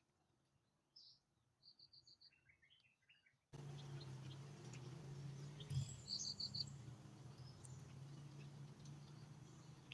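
Faint bird calls: scattered short chirps and a quick run of four or five high, evenly spaced notes, heard twice. About three and a half seconds in, the background suddenly becomes louder, with a low steady hum under it.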